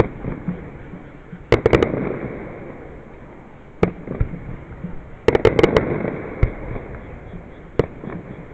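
Aerial fireworks shells bursting, a string of sharp bangs with quick crackling clusters about a second and a half in and again past the middle, and a rumbling echo in between.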